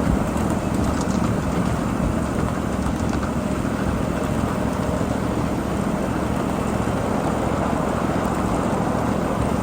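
Steady running rumble of a 7.5-inch gauge miniature freight train rolling along its track, heard from on board, with a few faint ticks.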